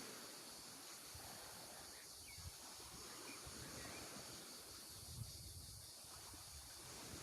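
Faint outdoor background: a steady hiss with a fluttering low rumble and a few faint, brief high chirps.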